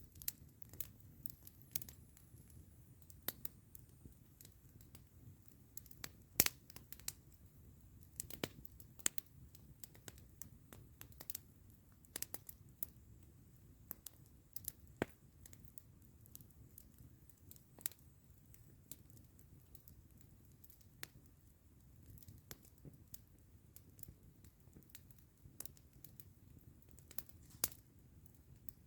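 Wood campfire crackling, with irregular sharp pops and snaps, a few louder ones, over a low steady hiss.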